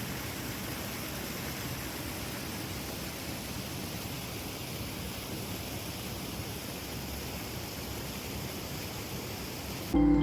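Steady rushing noise with no distinct events. Music cuts in abruptly right at the end.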